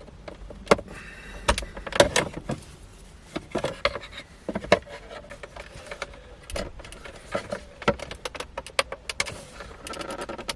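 Plastic interior trim panels of a BMW i4's centre console being pulled off their retaining clips by hand: a string of irregular sharp clicks, snaps and knocks of plastic.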